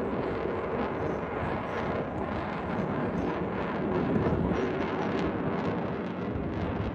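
Jet aircraft flying past, a continuous rushing engine noise that builds to its loudest about four seconds in and then eases slightly.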